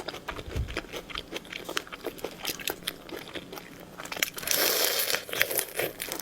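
Close-miked eating of seafood: crunchy bites and wet chewing with many small crackles, and a louder burst of crackling about four and a half seconds in that lasts about a second.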